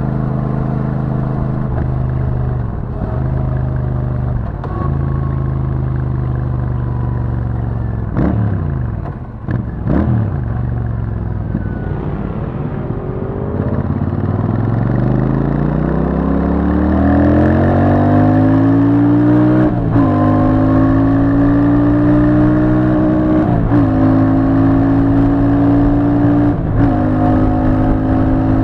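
Royal Enfield Super Meteor 650's 648 cc parallel-twin engine through its stock exhaust, first cruising at a steady pitch. About halfway through it pulls hard, rising in pitch and getting louder, then drops briefly and climbs again three times as it shifts up through the gears.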